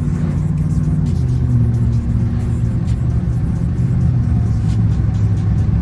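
Car engine running with a steady low rumble that drops in pitch about a second in, under background music with a beat.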